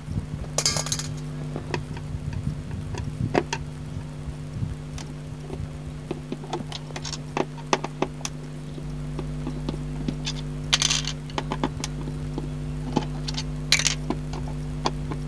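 Plastic keys and parts of a Roland E-X20 keyboard being taken apart by hand: irregular clicks and knocks, with a few short scrapes, over a steady low hum.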